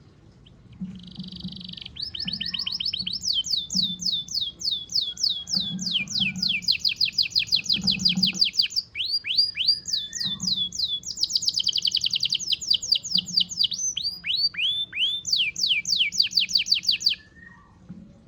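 Domestic canary in moult singing a long, vigorous song of rapid trills: fast runs of high, downward-sweeping notes, switching from one trill to the next. The song starts about a second in and stops about a second before the end.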